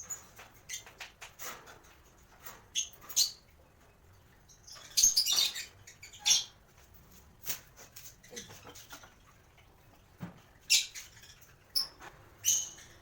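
Lovebirds chirping: short, shrill, high-pitched calls scattered irregularly, loudest about five seconds in and again near the end.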